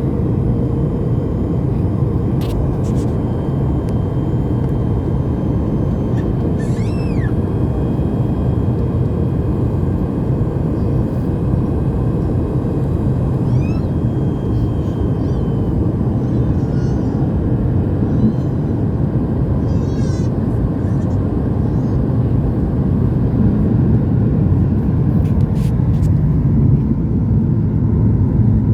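Steady rumble of a Boeing 737 MAX 8's CFM LEAP-1B engines and airflow heard inside the passenger cabin on approach, with a few faint high chirps now and then.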